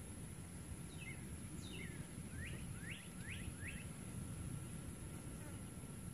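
Faint outdoor background hiss with a small bird chirping a quick series of about six short calls, between one and four seconds in.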